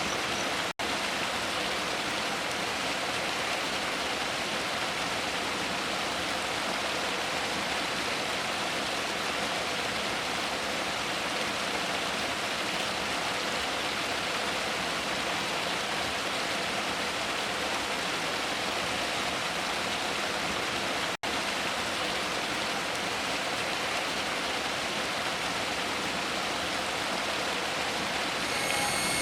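Steady rushing noise of running water or rain, even and unbroken apart from two instant dropouts, with no bird song over it.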